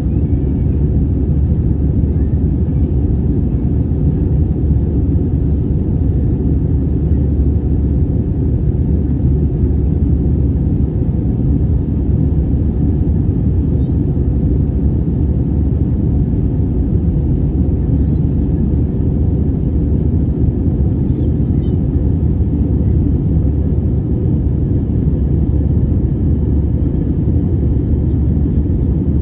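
Airbus A320 cabin noise: a loud, steady low rumble of engines and airflow.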